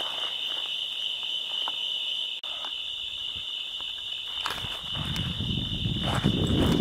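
Night-time chorus of crickets, a steady high trill. A low rumbling noise joins from about five seconds in.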